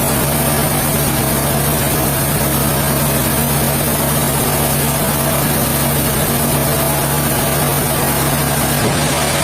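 Heavy machinery engine running steadily at a constant speed, a continuous low hum with no cutting strokes or revving.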